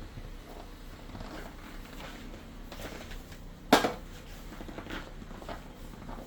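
A single sharp knock or clatter a little under four seconds in, among faint scattered handling clicks over a low steady hum.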